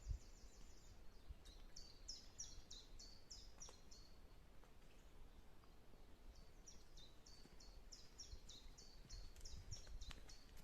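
A songbird singing faintly: quick high notes, each falling in pitch, about three a second, in two runs of three seconds or so with a pause between.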